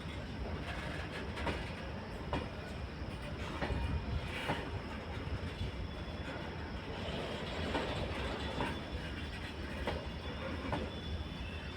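Loaded BCNA covered freight wagons rolling past with a steady low rumble, their wheels clicking over the rail joints about once a second.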